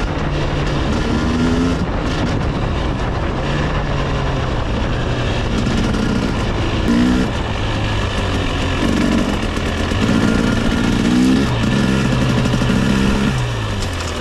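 300 cc two-stroke dirt bike engine being ridden under changing throttle, its pitch climbing and dropping again and again as the rider shifts and rolls on and off the gas.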